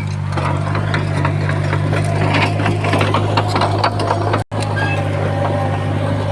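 Diesel engine of heavy earthmoving machinery running steadily, with irregular clanks and rattles over it. The sound cuts out for an instant a little past halfway through.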